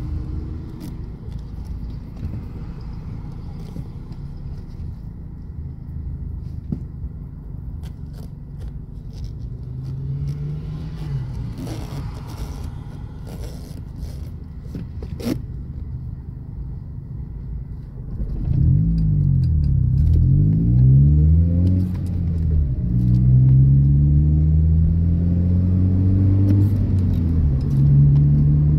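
Car engine heard from inside the cabin, running low and steady at first, then from about two-thirds of the way in revved up and down repeatedly and louder as the accelerator is pumped. A few light clicks and scrapes come in the middle.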